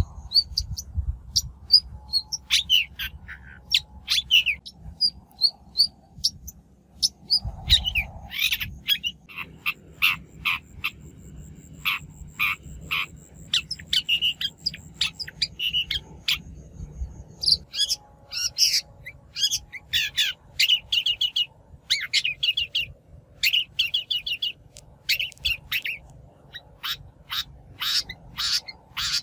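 Shrike calling in a trapping lure recording: rapid runs of short, harsh, chattering call notes, with a thin steady high trill through the middle.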